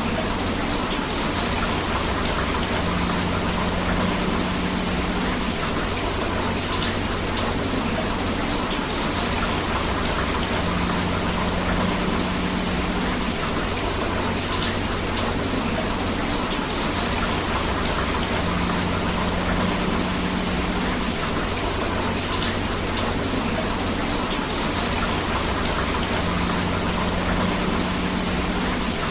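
Steady rain and rushing river water, a dense, even hiss of falling drops and flowing water. A short stretch of the recording repeats about every eight seconds.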